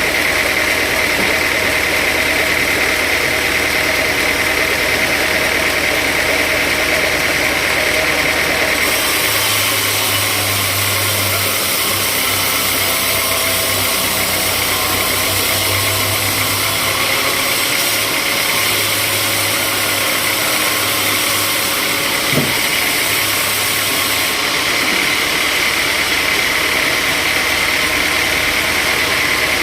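Sawmill machinery running steadily, a mechanical drone and hiss. Between about nine and twenty-four seconds in the hiss grows brighter and a low hum comes in, with one short knock near the end of that stretch.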